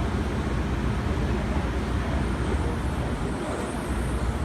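Interior noise of an R160B Siemens subway car running between stations: a steady rumble of wheels on rail with a low motor hum.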